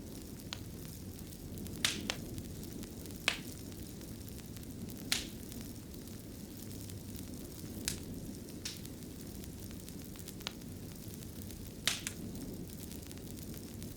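Fireplace fire crackling: a steady low rumble of flames with sharp, irregular pops and snaps every second or two.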